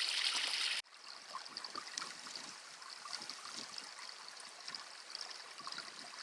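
Water running in a small runoff stream, a steady rushing trickle that drops suddenly to a quieter trickle with faint scattered ticks about a second in.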